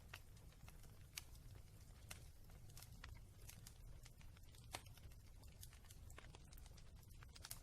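Wood fire in a fireplace crackling faintly, with sparse sharp pops over a low steady rumble; the loudest pops come about a second in and just past the middle.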